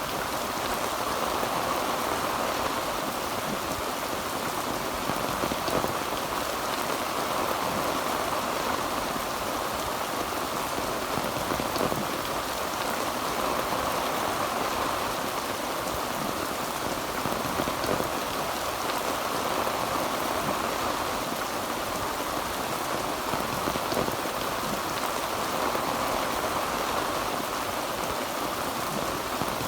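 Heavy rain falling steadily on a tin roof, a dense even patter of drops.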